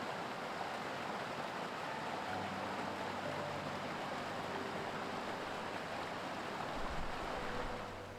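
Mountain stream rushing over rocks: a steady wash of water noise that eases slightly near the end.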